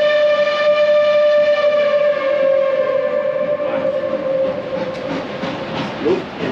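Reading T-1 steam locomotive's whistle sounding one long steady blast that fades out past the middle. Then a rhythmic chugging of about three beats a second starts up.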